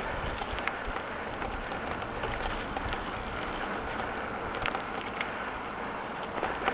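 Steady rush of wind on the microphone and tyre noise while riding a bicycle, with a few faint small ticks.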